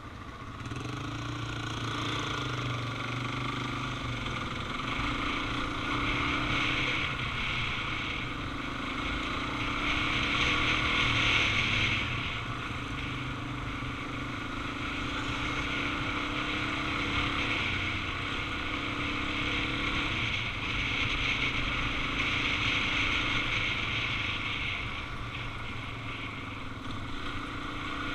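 Suzuki DR-Z400 single-cylinder engine pulling away and running at road speed, its pitch climbing and dropping back several times as it goes through the gears.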